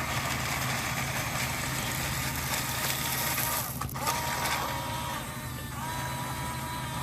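Small electric motors of radio-controlled construction models whining, spinning up and holding about four seconds in and again near the end, over a steady low hum and a rushing noise.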